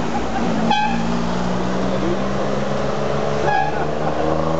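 Car engines climbing a road: a steady engine note, then a second car's engine rising in pitch as it approaches. Two short high toots sound, about a second in and again near the end.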